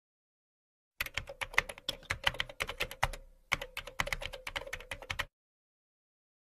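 Computer keyboard typing sound effect: rapid, irregular key clicks starting about a second in, with a short break midway, and stopping after about four seconds. A faint steady hum runs beneath the clicks.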